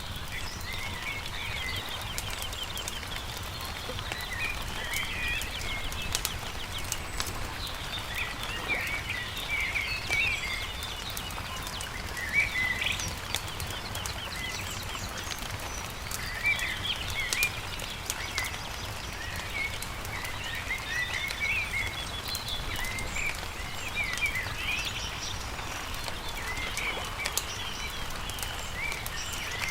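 Songbirds chirping in repeated short phrases, over the scattered pops and crackles of a wood-burning campfire and a steady low rumble.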